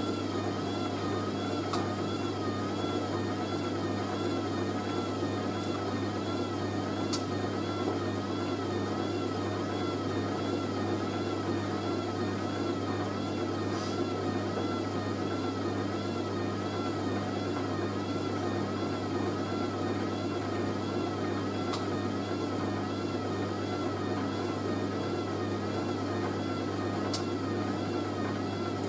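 Hoover A3060 Electronic 1100 washing machine spinning on an intermediate spin: a steady motor hum and whine whose pitch waves up and down in a regular rhythm, with a few faint ticks.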